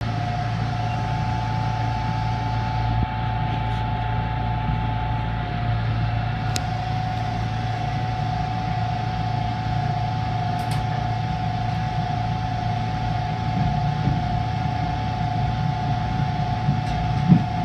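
Steady machinery hum inside a JR East 583 series train car, with a constant mid-pitched whine over a low drone.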